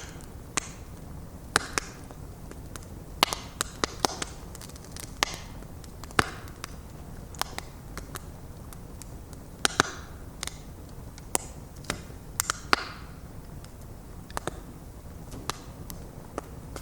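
Wood fire crackling: irregular sharp pops and snaps over a steady low rumble of the flames, a few of the pops trailing off in a brief hiss.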